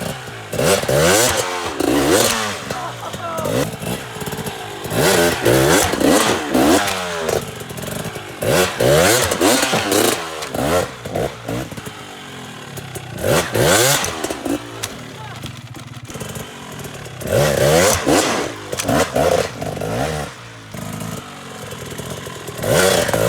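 Two-stroke dirt bike engine revved in repeated sharp throttle bursts, about six of them, the pitch sweeping up and falling back each time, with lower running in between: throttle blips with clutch pops to get the bike up and over a log.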